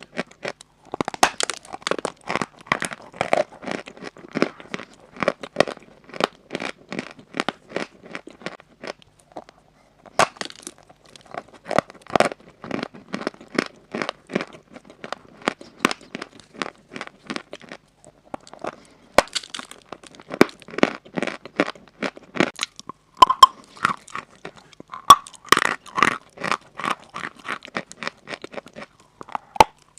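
Chalk being crunched in dense, rapid runs of sharp crackles, broken by two short pauses about nine and eighteen seconds in.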